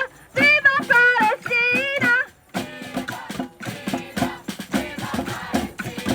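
Live song with a singer and a guitar: the voice sings held notes with vibrato over a steady plucked guitar rhythm, then stops about two seconds in, leaving the guitar playing on alone.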